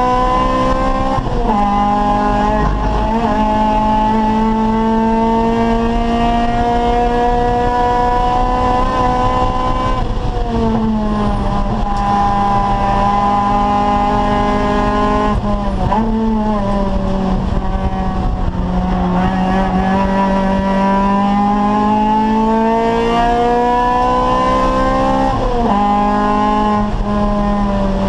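Acura Integra race car's four-cylinder VTEC engine running hard at racing speed. Its pitch climbs and falls slowly through long pulls and jumps sharply at gear changes about four times.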